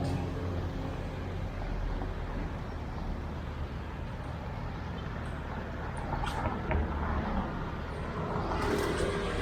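Road traffic: a steady low rumble of passing vehicles, getting louder and brighter near the end.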